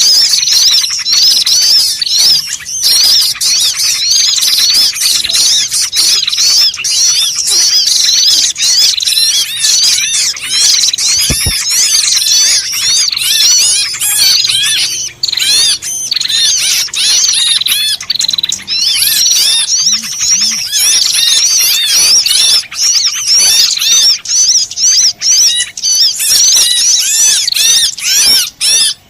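Dense chorus of many small birds chirping and twittering without pause, a noisy flock played as a bird-lure recording to draw small birds in.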